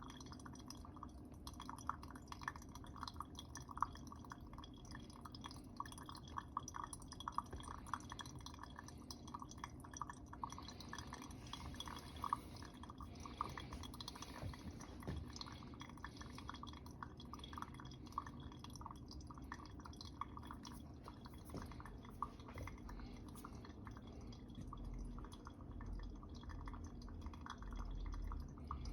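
Brewed coffee dripping steadily from a pour-over cone into the server below as the water drains through the bed of grounds. The drawdown is slow because the grounds are ground too fine.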